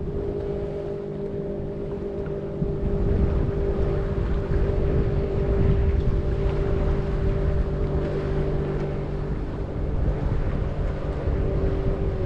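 An engine running at a steady pitch, with wind buffeting the microphone; the engine's pitch dips slightly right at the end.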